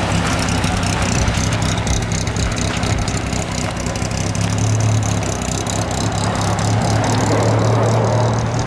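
A car engine idling steadily, with a constant low hum.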